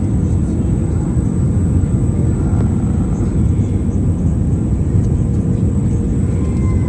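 Aircraft cabin noise in flight: a steady, loud drone of engines and rushing air heard from inside the cabin, with a constant hum over it.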